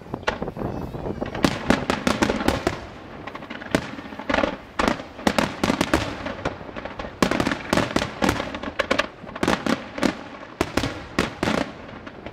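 Display fireworks bursting: many sharp bangs in rapid, irregular succession, overlapping with crackle between them.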